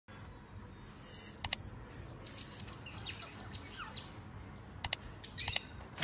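Bird calls: a run of loud, high whistled notes in the first few seconds, broken by a few sharp clicks, then fainter chirps.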